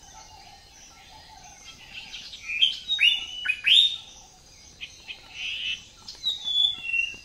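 Recorded penguin calls played by an augmented-reality penguin: a string of short, high chirps that hook upward, loudest about two to four seconds in and again near the end.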